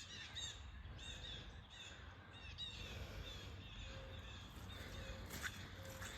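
Birds chirping outdoors: a quick run of short, repeated high chirps, a few faint lower notes in the middle, over a low rumble on the microphone.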